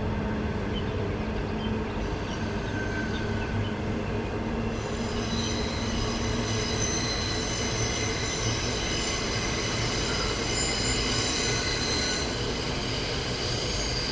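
Train running along the line with a steady rolling rumble; about five seconds in, a high-pitched wheel squeal sets in and carries on.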